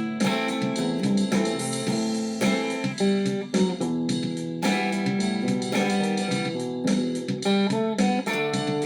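Guitar music without singing: a melody of plucked notes and chords, each note starting sharply.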